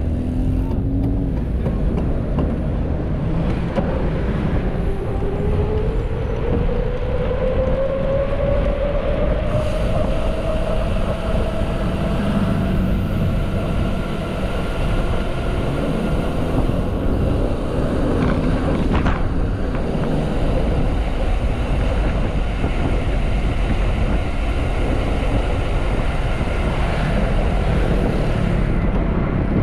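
Steady wind and road rumble on a moving microphone during a mountain-bike ride. A motor's tone rises in pitch between about four and ten seconds in, then holds.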